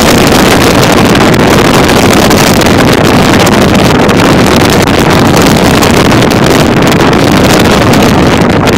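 Strong wind blowing across the microphone: a loud, steady rush of noise, heaviest in the low end.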